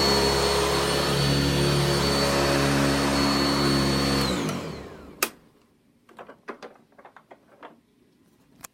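Sanitaire S635A upright vacuum's 5-amp motor running steadily with a high whine. About four seconds in it is switched off and spins down, falling in pitch. A sharp click follows, then a few faint knocks and a second click.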